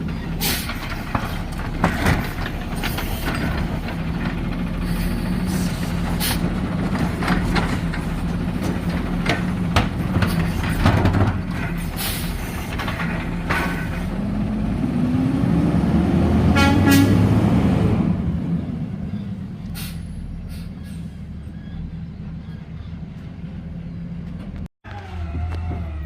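Garbage truck at work: its diesel engine running steadily under repeated clanks and knocks, with a sound that rises and then falls in pitch about two thirds of the way in, after which it goes quieter.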